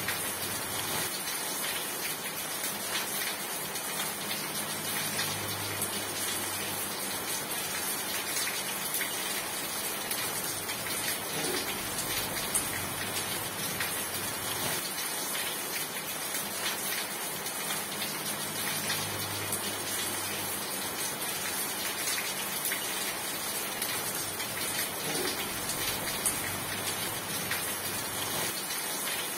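Steady rain falling and pattering on a surface, with many small drop ticks in a dense hiss. A faint low rumble swells and fades twice.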